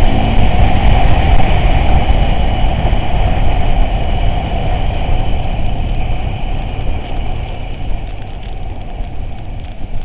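Off-road vehicle engine running under a heavy low rumble that gradually gets quieter.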